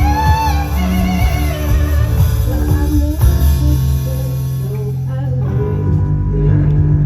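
Live band music: guitars and bass holding steady notes, with a wavering sung note over them in the first second or two.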